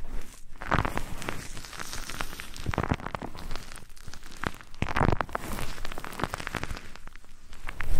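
Close-up crackling and rustling ASMR trigger sounds, a dense run of irregular scratchy clicks with soft swells of noise.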